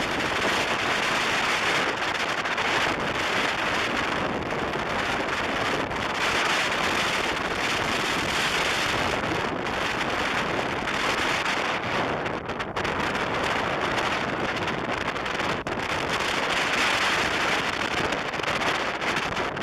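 Wind rushing over the microphone of a camera on a motorcycle riding at highway speed, a steady loud roar with road and engine noise underneath. It dips briefly twice, about two-thirds of the way through.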